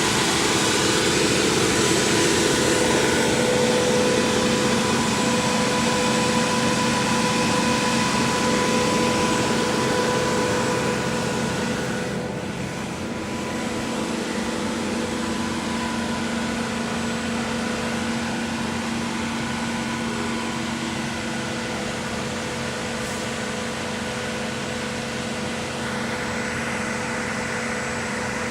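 Scania truck-mounted Junjin concrete pump running steadily: a continuous machine drone with a steady whine. It dips slightly in level about twelve seconds in.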